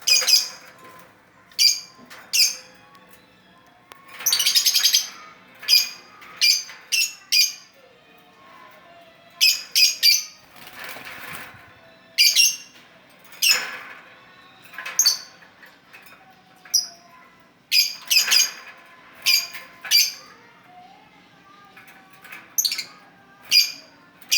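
A pet songbird giving short, sharp, high chirps at irregular intervals, some in quick runs of two or three, not yet full song, as the owner says the bird is only almost in full voice. A longer rustling sound comes about eleven seconds in.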